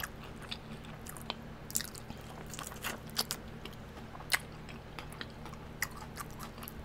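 Close-up chewing and biting of crispy fried hot wings, with irregular sharp crunches and wet mouth clicks as the wing is torn apart and eaten.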